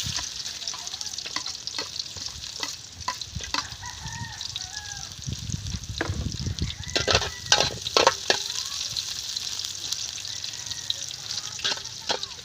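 Food sizzling as it fries in a pan, with the sharp clicks and knocks of a utensil stirring it. The loudest knocks come a little past the middle.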